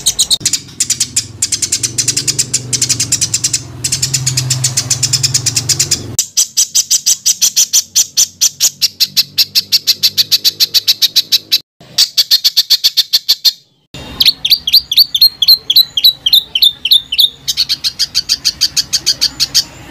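A songbird singing rapid-fire 'tembakan' phrases: short, high notes packed close together at about eight a second, in runs broken by two brief pauses. In the middle comes a run of quick downward-swept notes.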